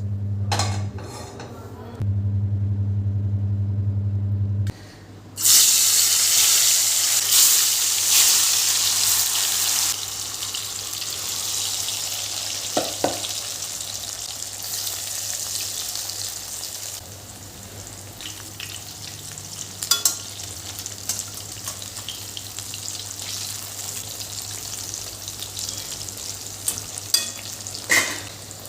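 A steady low hum, then, about five seconds in, a sudden loud sizzle as food goes into hot oil in a pan. The sizzle eases after a few seconds into steady frying, with a few sharp clinks of a utensil against the pan.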